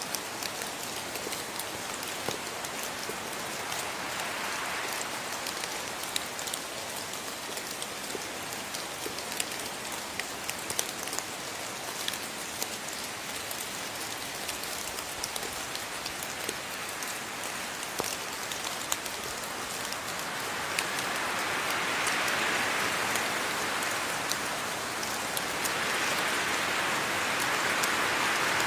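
Steady rainfall, a continuous hiss with many individual drops ticking, growing heavier from about two-thirds of the way through to the end.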